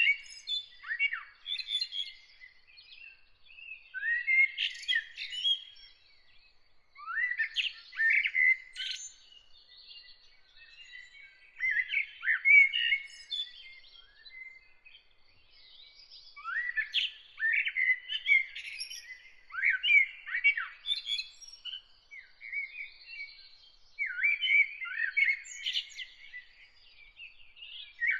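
A songbird singing short, fast, chirping phrases with quick rising notes, one phrase every two to three seconds. Faint, rapid, high repeated notes run steadily behind the song.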